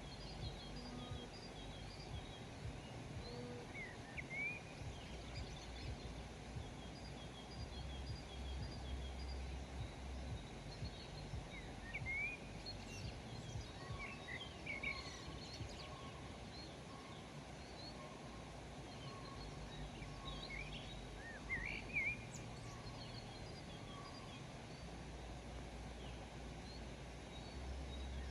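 Several wild birds chirping and calling, with short rising chirps scattered throughout and a brief run of lower repeated notes in the middle, over a steady low outdoor rumble.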